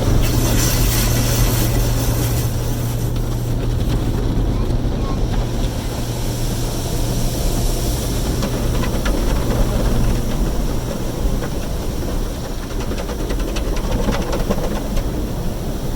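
Automatic tunnel car wash heard from inside the car: steady machinery noise with a constant low hum and water spray hissing on the car, the spray strongest in the first few seconds.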